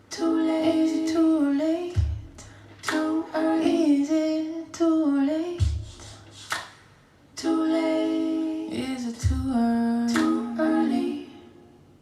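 Wordless a cappella singing or humming in held, bending phrases. It is kept in time by a low thump about every three and a half seconds, with a sharp clap-like hit between them. It fades out shortly before the end.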